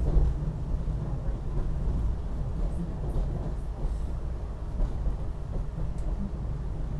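Steady low rumble inside a SEPTA Silverliner IV electric railcar, the noise of the train itself with no voices over it.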